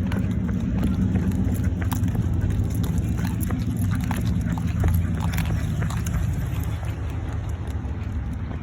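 Pickup truck engine running as it drives off, easing slightly toward the end, with scattered light footfalls of a dog running after it.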